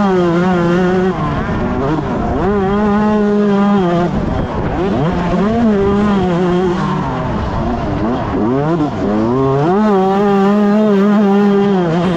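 A 125cc two-stroke motocross bike engine at racing revs. It is held high for a second or two at a time, drops away several times, and quickly climbs back up each time.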